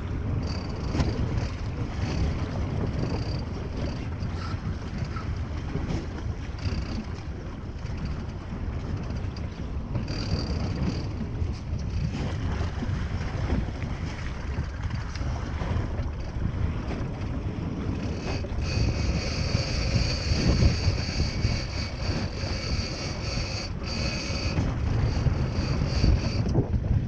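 Boat noise at sea: a steady low rumble with wind buffeting the microphone, and a thin high-pitched whine that comes and goes, held more steadily in the last third.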